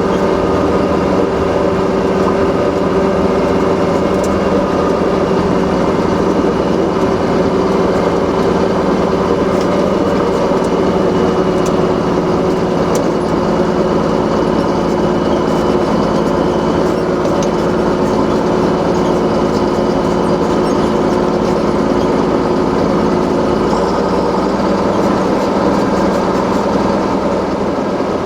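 A large engine running steadily at a constant speed, close by, its pitch shifting slightly near the end.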